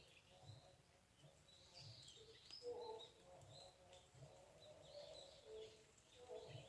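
Faint birds calling: scattered short chirps, with lower calls underneath.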